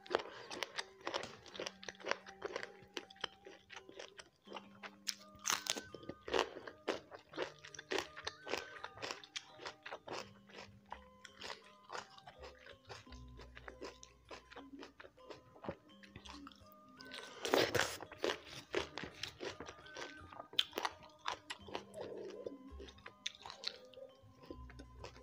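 Close-miked crunching and chewing of raw side vegetables (lalapan) in a mouth, with many sharp crunches and a loud run of them about 17 seconds in. Soft background music with held notes plays underneath.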